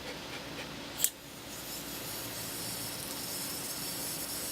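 A sharp click about a second in, then a steady hiss of water spraying.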